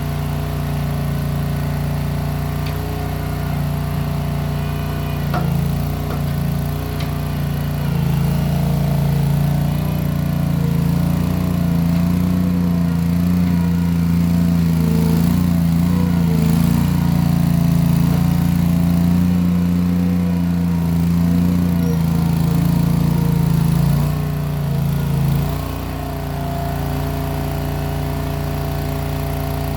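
Case 1816 skid steer's replacement engine running, exhausting through small round mufflers. It steps up to higher revs about a quarter of the way in, holds there, then drops back to a lower speed near the end.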